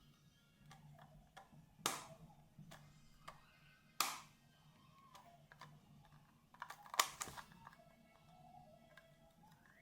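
Scattered clicks and taps of a speed cube and its packaging being handled, with three louder knocks about two, four and seven seconds in.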